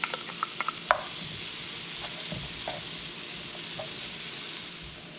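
Chopped onion sizzling as it fries in melted butter, a steady hiss, with a few light clicks in the first second and a sharper knock just under a second in.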